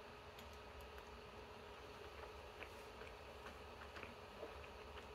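Faint chewing of a soft strawberry and cream sandwich: a few scattered small wet mouth clicks over a steady low room hum.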